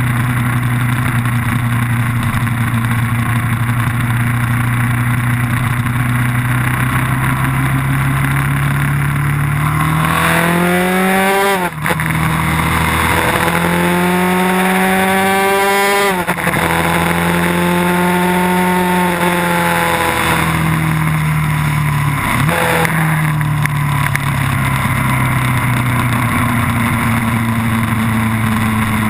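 Vehicle engine on a race-track lap, heard onboard over wind rush. It runs steadily, then about ten seconds in revs up twice, each rise ending in a sudden drop at an upshift. It then winds down as the vehicle slows, with a quick throttle blip on a downshift before it settles back to a steady drone.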